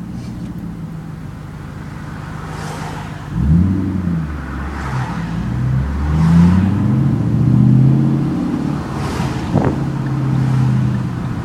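2010 Ford Mustang GT's 4.6-litre V8 through an off-road H-pipe, mid-mounted Magnaflow Magnapack mufflers and Pypes Bomb tips, heard from inside the car with the windows down. A steady low cruising note, then about three seconds in the engine opens up under acceleration, its pitch climbing and falling several times.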